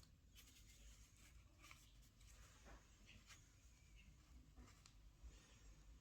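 Near silence, with a few faint short ticks and scratches.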